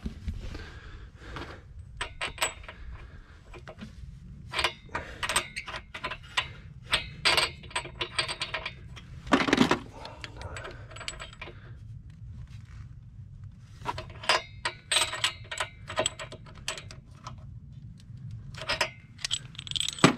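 Irregular metallic clinks, clicks and knocks of tools and small engine parts being handled while working on a Trabant's two-stroke engine, over a steady low hum.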